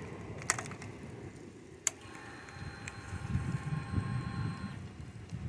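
Royal Enfield Super Meteor 650 with its engine not yet running: two sharp clicks, then a faint steady electrical whine for about three seconds, over low irregular rumbling.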